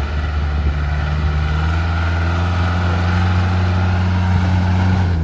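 Off-road vehicle's engine running hard at held revs, its pitch creeping slightly upward.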